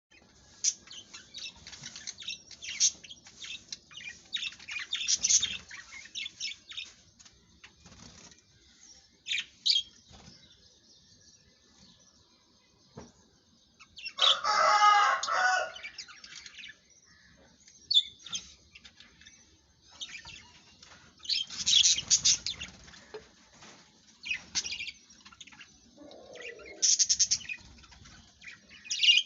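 Budgerigars chirping and chattering in irregular clusters of short, high calls. A louder, longer call with several pitches comes about halfway through.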